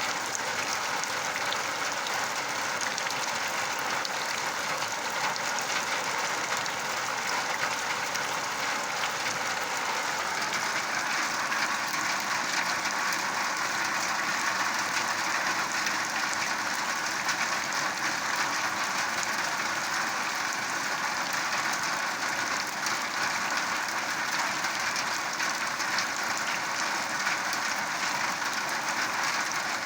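Rain falling steadily: an even hiss made of many small drop impacts.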